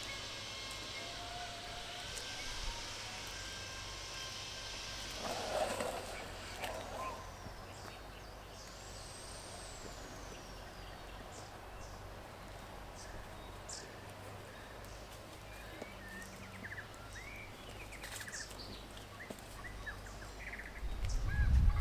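Rural outdoor ambience: a steady background of noise with scattered short bird chirps. A louder low rumble comes in near the end.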